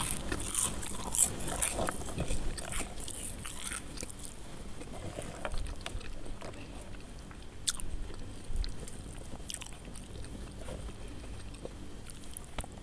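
Close-up chewing and biting of crispy fried potato strips: dense crunching over the first few seconds, thinning to occasional single crunches and softer chewing.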